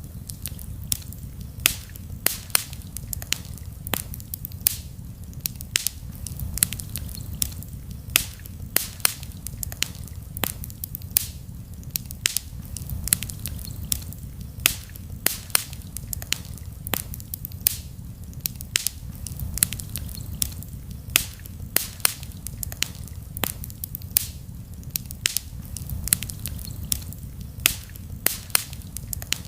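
Wood campfire crackling, with frequent sharp pops and snaps at irregular intervals over a steady low rumble.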